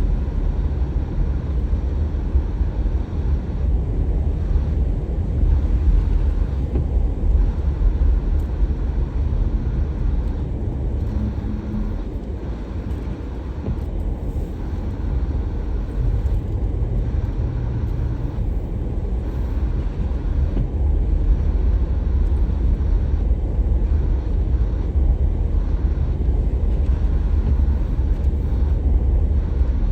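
Car driving: a steady low rumble of engine and tyres on the road, easing a little about halfway through.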